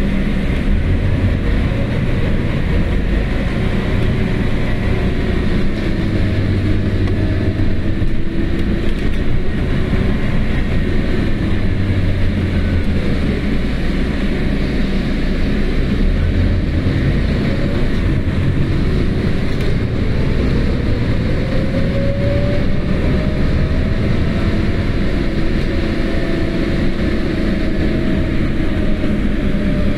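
Scania CN280UB compressed-natural-gas city bus driving, heard from inside the passenger cabin: a steady engine and road rumble. Over it, a drivetrain whine rises in pitch about two-thirds of the way through as the bus gathers speed, then falls away near the end.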